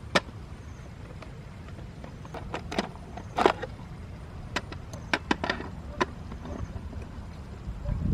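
Scattered sharp knocks and clicks, about a dozen at uneven intervals, over a steady low rumble.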